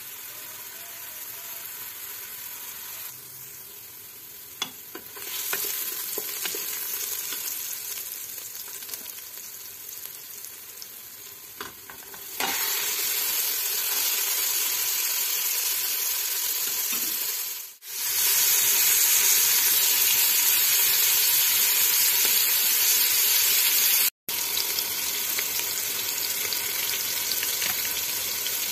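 Diced onions sizzling in hot oil in a pot. About twelve seconds in the sizzling jumps louder as chunks of raw meat go into the oil, then carries on frying as the meat and onions are stirred with a wooden spatula.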